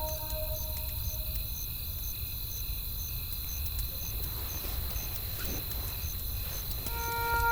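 Night-forest ambience: crickets chirping in a steady rhythm about twice a second over a low rumble of wind, with faint crackles from a wood fire. A soft sustained music chord comes in near the end.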